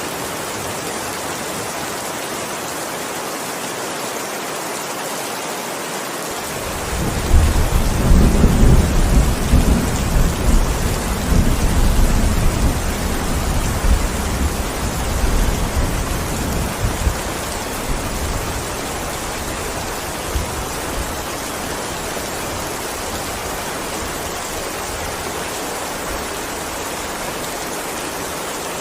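Steady heavy rain with a long roll of thunder. The deep rumble starts suddenly about six seconds in, is loudest over the next several seconds, and dies away over about ten seconds, leaving the rain alone.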